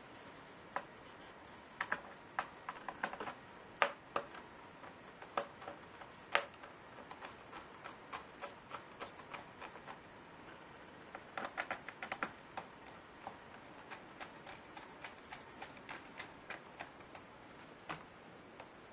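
Laptop keyboard keys being pressed: irregular sharp clicks, singly and in quick runs.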